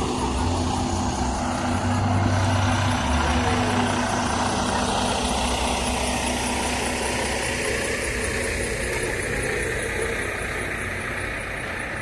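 Heavy truck's diesel engine running, its deep rumble strong for the first few seconds and then fading.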